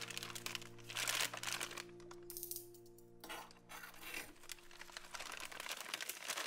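Plastic mailer bag crinkling and rustling in a series of short bursts as it is cut open with scissors and handled, over soft background music that fades about halfway through.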